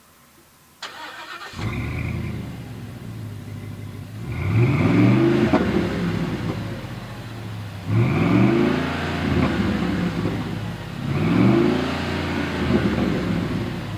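Ford Super Duty 6.2L gas V8 through a Flowmaster Force II cat-back exhaust with a 50 Series HD muffler: it starts about a second in, settles into an idle, and is then revved three times, each rev rising and falling back to idle.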